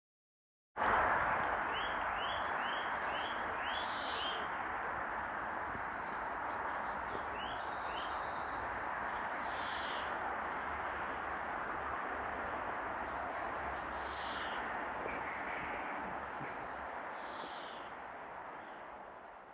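Songbirds singing in short repeated chirping phrases every few seconds over a steady outdoor background hiss, the whole fading out near the end.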